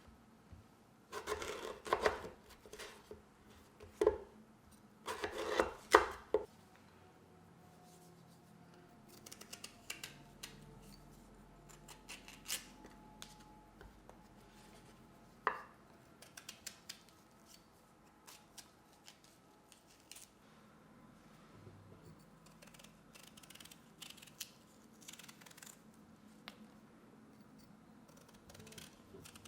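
Fresh pears being peeled and cut with a knife: a few loud scraping, slicing strokes in the first six seconds, then quieter scattered knife clicks and scrapes.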